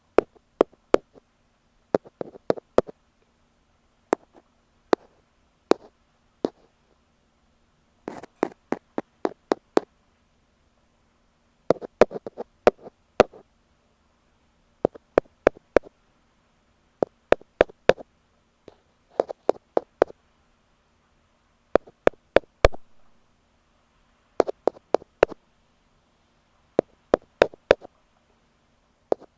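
Ear pick tapping directly on an earphone microphone: quick clusters of sharp, close taps, a few to about eight at a time, with short pauses between clusters.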